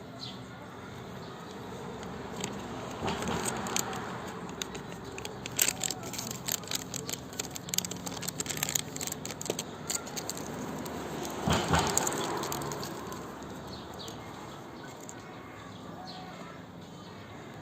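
Two vehicles pass, each a broad swell that rises and fades, a few seconds in and again past the middle. Between them come many irregular sharp crackling clicks.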